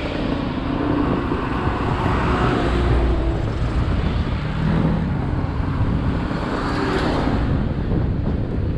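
Road traffic noise with motor vehicles running, as heard while riding along the road, with a louder swell about seven seconds in.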